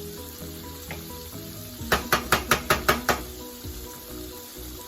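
Dry rice toasting in hot oil in a pot, sizzling while it is stirred, with a quick run of about seven sharp clacks of the spoon against the pot about two seconds in.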